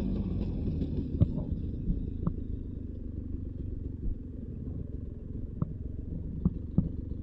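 Beta 300 RR two-stroke dirt bike engine running at low revs, easing off about a second or two in, with scattered sharp clicks and knocks over it.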